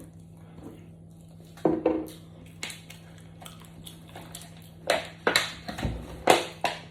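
Eating sounds close to the microphone: chewing with short sharp clicks of dishes and utensils, a few early on and a denser cluster in the last two seconds.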